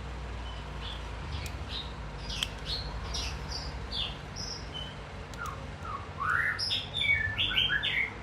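A small songbird chirping: scattered short high chirps, then a louder run of quick notes sweeping up and down near the end, over a steady low hum.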